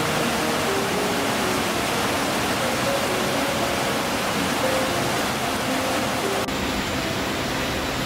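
Steady rushing of running water, with faint background music notes over it; the sound shifts abruptly about six and a half seconds in.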